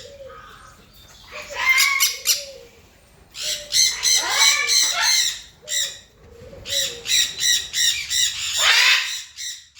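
Indian ringneck parakeets (lutino and albino) calling: several bursts of rapid, harsh, repeated squawks with short pauses between them.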